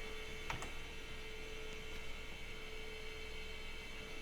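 Steady electrical hum with a faint constant tone from a running old PC, with a soft click or two about half a second in, typical of a keyboard key being pressed.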